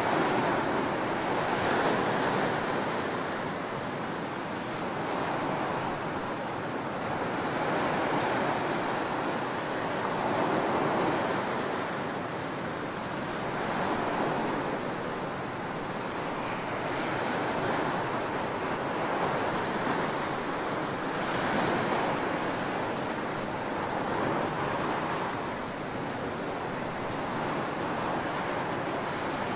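Ocean surf washing onto a beach, a continuous rushing that swells and eases as each wave breaks, every three to four seconds.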